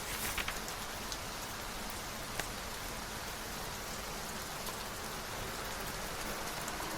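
Steady rain falling, with scattered sharper drop ticks and a short cluster of louder crackles just after the start.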